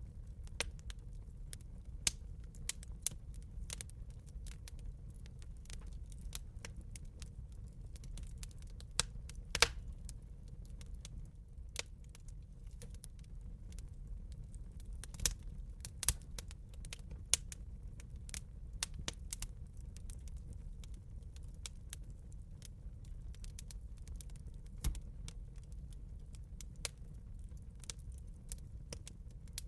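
Wood fire burning in a fireplace, crackling with irregular pops over a steady low rumble of flames, a few pops much louder than the rest.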